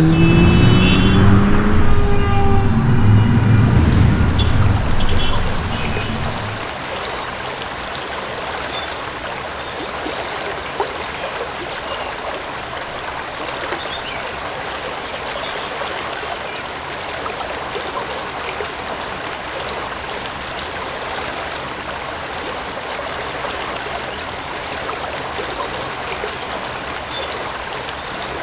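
A loud low rumble with rising tones for the first six seconds, then a steady running-stream water sound, the nature sound generated as a noise mask.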